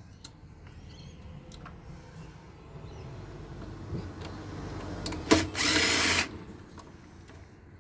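Power drill-driver backing screws out of a solar inverter casing. It runs low for several seconds, then gives a loud burst of about a second about five seconds in, with small clicks between.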